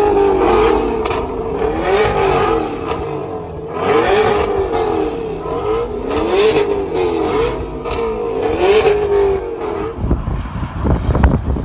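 Car engine revved again and again, its pitch rising and falling about every two seconds over a steady held engine note, which stops about ten seconds in and gives way to a rumble with a few knocks.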